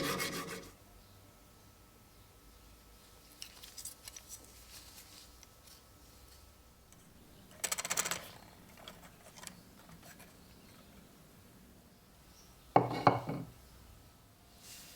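Filing strokes on metal stop about half a second in, followed by small clinks and knocks of metal tools and knife parts being handled on a workbench. There is a short scraping rustle midway and a sharp metallic clatter near the end, as something metal is set or dropped down.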